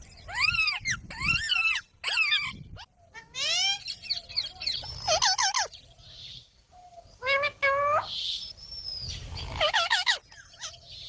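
Pet parrot calling: a string of short, arching squawks in clusters, with brief pauses between them.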